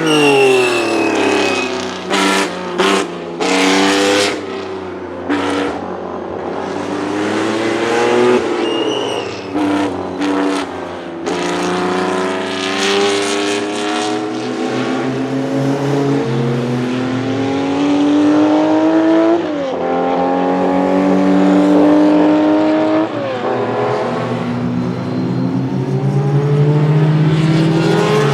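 A 1967 Porsche 910's two-litre flat-six racing engine revving hard on track. Its pitch climbs through the gears and drops sharply at each upshift. There are several sharp cracks a few seconds in and again around ten seconds in.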